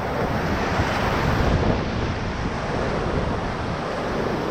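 Whitewater rapids of the Ocoee River rushing steadily around a raft, with wind buffeting the microphone.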